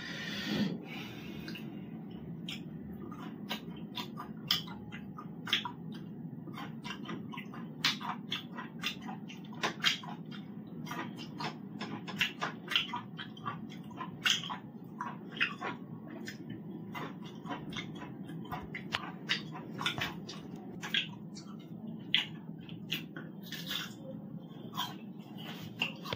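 A person eating by hand close to the microphone: chewing with many short, irregular wet smacks and mouth clicks, over a steady low hum.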